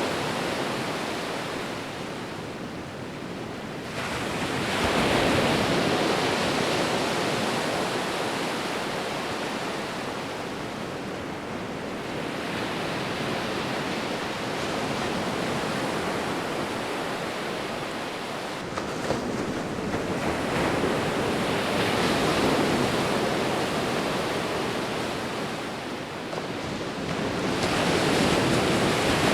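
Sea waves breaking and washing up the shore, a continuous surf hiss that surges with each wave: one big swell about five seconds in, another about two-thirds of the way through and a third near the end.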